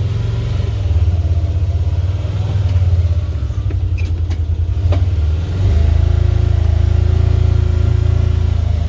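Loud farm vehicle engine running steadily at low speed; about five and a half seconds in it revs up and holds at a higher, steadier pitch.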